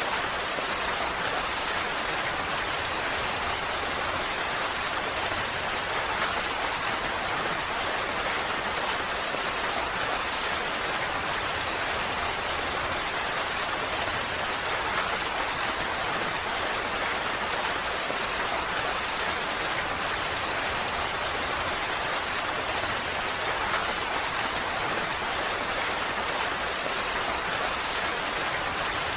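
Steady rain falling, an even hiss of many drops with faint individual drop ticks now and then.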